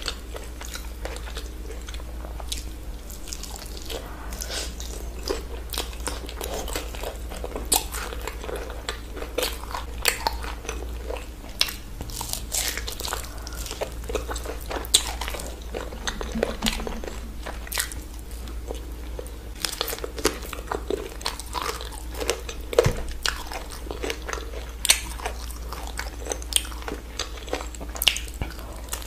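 A person biting and chewing sauce-glazed fried chicken close to the microphone, with crisp crunches and sharp clicks scattered irregularly throughout.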